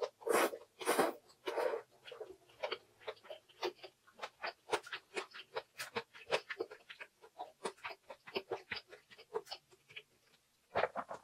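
Close-miked mouth chewing a spoonful of fried rice and green onion kimchi: a dense run of small clicks and crunches, with larger bursts in the first two seconds and again near the end.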